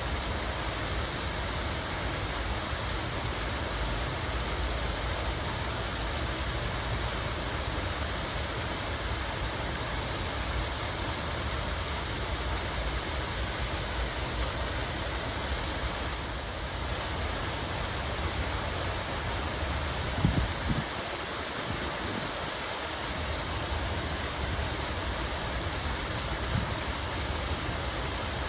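Steady rush of running water, with a low rumble beneath it and a brief low thump about two-thirds of the way through.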